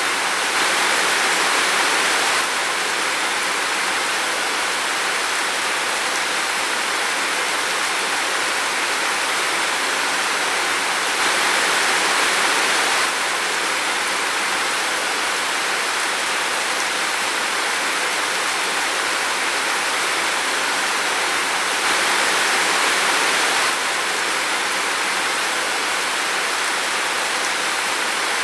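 Steady rain falling in a forest, an even hiss that swells a little for a couple of seconds three times: near the start, about 11 seconds in and about 22 seconds in.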